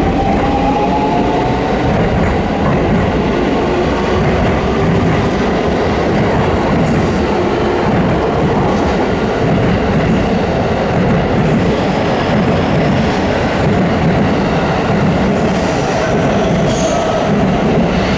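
JR West 223 series electric train pulling away from the platform, its motor whine rising in pitch over the first couple of seconds, then a steady loud rumble of the cars rolling past.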